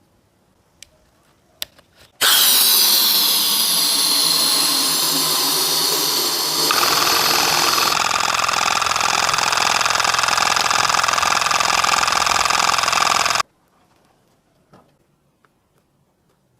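A homemade air compressor's electric motor running. It switches on abruptly about two seconds in, its pitch settling down at first, turns deeper with a fast regular pulse about halfway through, and cuts off suddenly.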